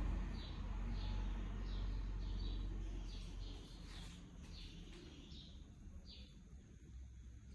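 A small bird chirping over and over, short falling chirps about one and a half times a second, over a low rumble that fades out about three and a half seconds in.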